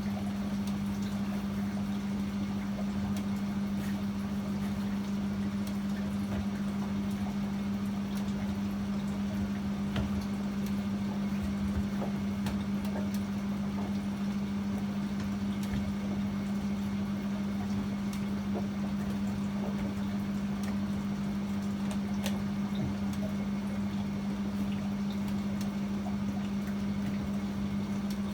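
Privileg 804 washing machine running with a steady, unchanging hum and faint scattered ticks.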